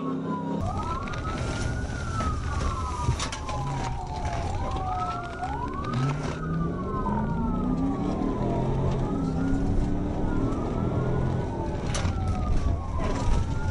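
Police car siren wailing, its pitch sweeping up and down again and again, sometimes in two overlapping sweeps, over the engine and road noise of the pursuing patrol car. About halfway through the engine pitch rises as the car speeds up.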